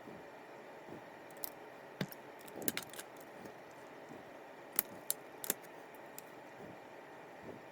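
Small metal parts of a fishing reel clicking and clinking against each other and on a hard surface as the reel is taken apart by hand, in scattered light clicks with a short cluster about two seconds in and three sharper clicks near the middle.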